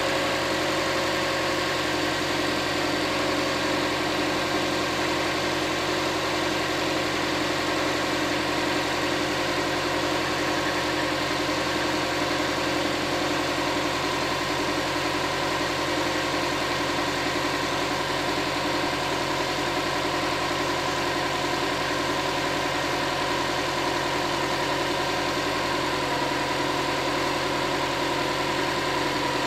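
A 2007 Subaru WRX STI's turbocharged 2.5-litre flat-four boxer engine idling steadily, still warming up after a cold start at −10 °C.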